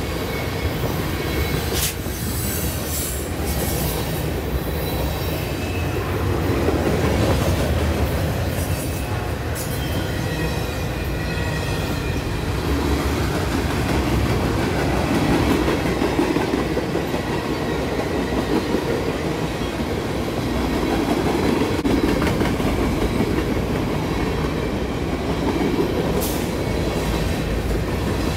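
Freight train rolling past close by: tank cars, flatcars and covered hoppers with a steady rumble of wheels on rail. There are a few sharp clicks over rail joints and light wheel squeal at times.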